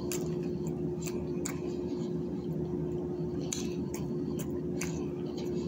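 Small clicks and crackles of food and its packaging being handled and eaten, a few scattered sharp ticks, over a steady electrical hum.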